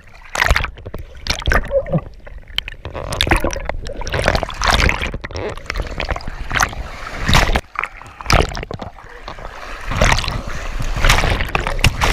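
Water splashing and sloshing in irregular surges, with a low rumble underneath.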